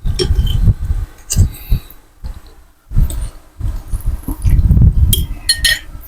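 Close-miked chewing of soft rice noodles: irregular wet mouth smacks and low thumps, with a few short sharp clicks.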